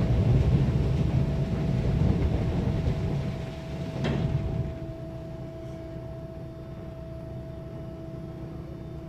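Automatic car wash heard from inside the car: rotating wash brushes scrubbing and slapping over the body, with a sharp knock about four seconds in. The scrubbing then stops and a quieter steady mechanical hum with a held tone is left.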